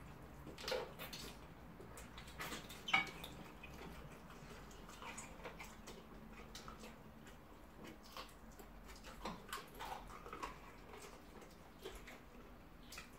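Mouth sounds of two people eating rice and tomato stew by hand: scattered short smacks and clicks of chewing and lip-smacking, with a couple of louder ones about one and three seconds in.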